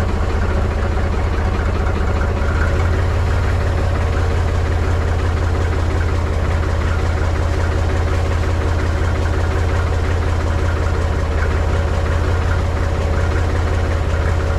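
Mahindra 3525 tractor's diesel engine idling steadily and chugging just after a cold start at 19 °F, not yet warmed up and running rough.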